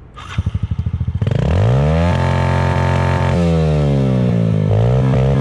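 Small single-cylinder dirt-bike engine: slow, uneven firing pulses for about the first second. It is then revved up hard, held high for about a second, and dropped back, before being blipped up and down.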